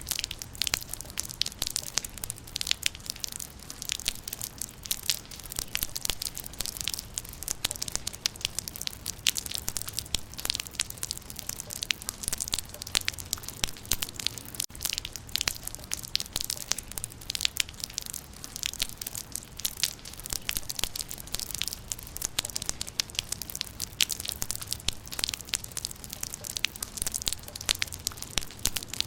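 Rain falling on leaves: a steady, dense patter of sharp, irregular drop ticks.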